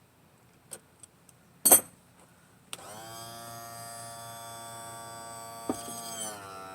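A few clicks and one loud knock, then the electric pump motor of a 1996 Johnson 70 outboard's power trim/tilt unit starts about three seconds in and hums steadily. Its pitch shifts down slightly near the end. The unit is being run on freshly topped-up fluid to bleed air out of the trim/tilt system.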